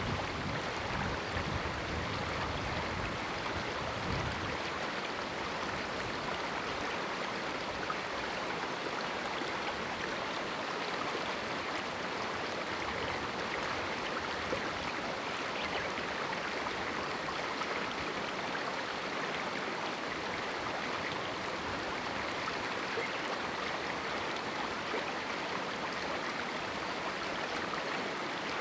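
A river stream rushing and babbling over rocks in a small canyon, a steady, even water noise, with a little extra low rumble in the first few seconds.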